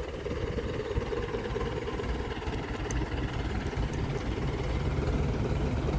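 A vehicle engine running steadily, growing a little louder toward the end.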